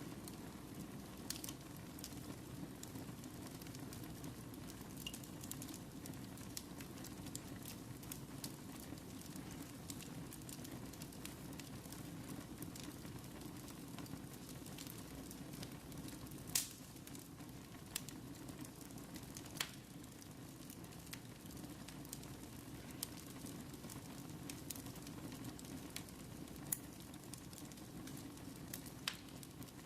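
Wood fire burning in a fireplace: a steady low rush with scattered sharp crackles and pops, the loudest about halfway through.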